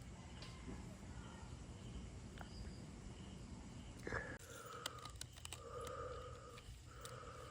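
Stray puppy crying: a falling yelp about four seconds in, then a run of drawn-out whimpering cries, with a few sharp clicks among them. A steady low hum runs underneath.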